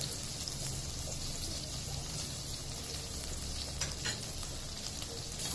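Sliced onion and chopped garlic sizzling in melted butter in a nonstick frying pan, with a spoon stirring them lightly now and then.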